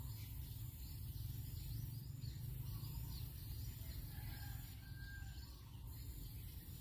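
Faint outdoor ambience: a few short, faint bird chirps over a steady low rumble and a thin high steady whine.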